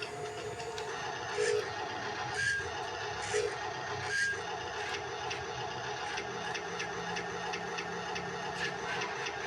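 Small electric motors and gearboxes of a radio-controlled loader and dump truck whirring, rising in short spurts about four times in the first half, with light clicks.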